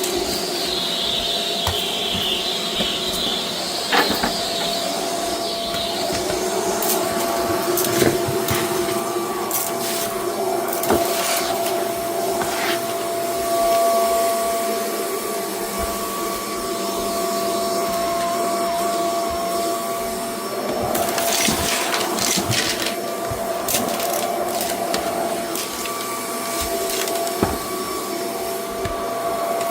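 Vacuum cleaner running steadily, its motor giving a constant whine over a rushing hiss. Occasional sharp clicks and knocks come through, with a cluster of them about three-quarters of the way through.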